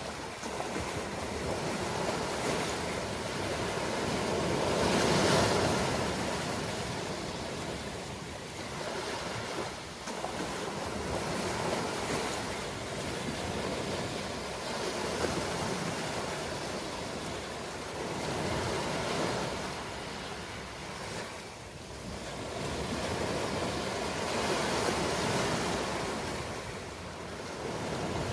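Ocean waves breaking and washing on a shore, the surf swelling and ebbing every few seconds, with the biggest wave about five seconds in.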